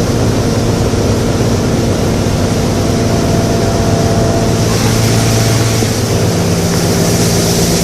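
Boat motor running steadily under way, with a constant rush of wind and water; its tone shifts slightly about five seconds in.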